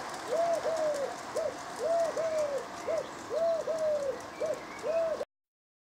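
A bird calling over and over, a run of short arched hoots, singly and in pairs, two or three a second; the sound cuts off suddenly just after five seconds in.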